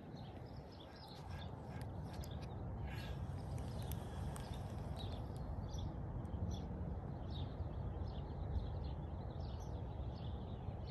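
Small birds chirping faintly, many short chirps scattered throughout, over a low steady background rumble.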